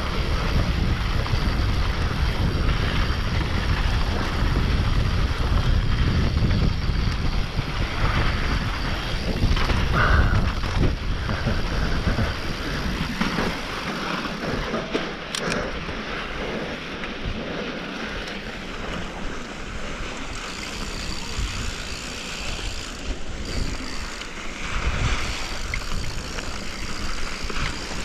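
Wind buffeting the microphone while a mountain bike rolls down a dirt trail, with tyre and trail noise. The low wind rumble is heavy for the first half and eases off after about thirteen seconds.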